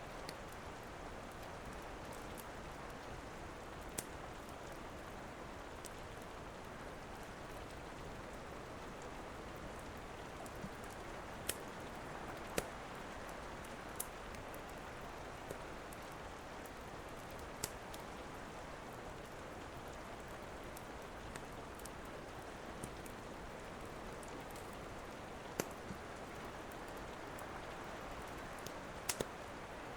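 Steady rain with scattered sharp crackles and pops from a wood fire in a fireplace, about a dozen over the stretch.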